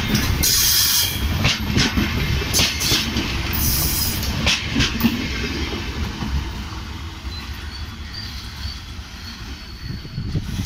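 Wheels of an LHB passenger train's last coaches rolling past on the rails, with sharp clicks and brief high wheel squeals in the first few seconds. The rumble then fades as the rear of the train pulls away.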